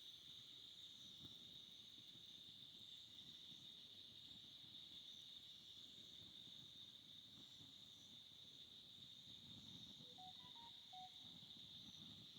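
Faint, steady chorus of crickets trilling, one unbroken high-pitched drone. A few short, soft notes come about ten seconds in.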